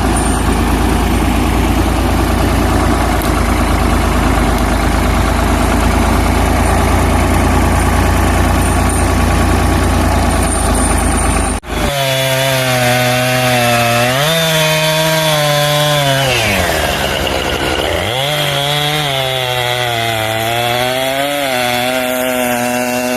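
Tractor engine running steadily. After an abrupt cut about halfway through, a small engine revs up and down: its pitch rises, drops very low and climbs again.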